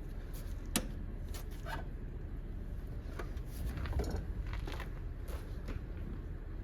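A few scattered light clicks and taps of tools and metal parts being handled in an engine bay, the sharpest about a second in, over a low steady hum.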